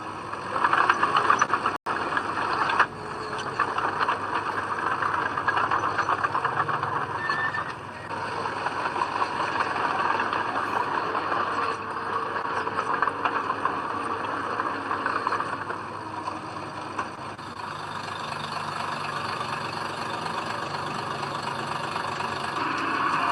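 Diesel engine of heavy earthmoving machinery running steadily, with a brief break about two seconds in.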